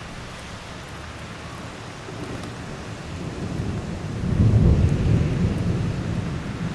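Heavy downpour hissing steadily as a roll of thunder builds a couple of seconds in. The thunder is loudest a little past the middle and keeps rumbling to the end.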